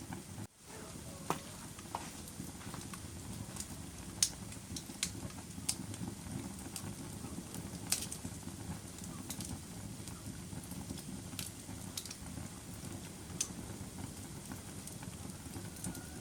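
Wood fire burning in a fireplace: a steady low rumble with irregular sharp crackles and pops, the loudest about four and eight seconds in. The sound drops out briefly about half a second in.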